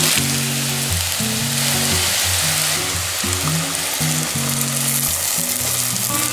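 Wheat rice cakes and onion slices sizzling as they fry in a pan, a steady sizzle under background music with a stepping bass line.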